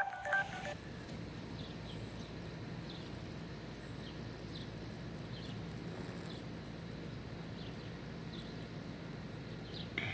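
Quiet outdoor background: a steady low rumble with scattered faint, short, high chirps.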